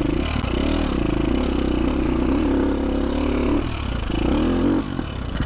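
KTM 450 SX-F's single-cylinder four-stroke engine running under load, its pitch rising and falling as the throttle opens and closes. The revs drop briefly about three and a half seconds in, pick up again, and ease off near the end.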